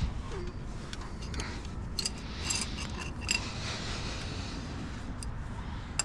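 Scattered light metallic clicks and scrapes of a wrench working an AN line fitting onto its threaded connection, with a few sharper clinks in the middle.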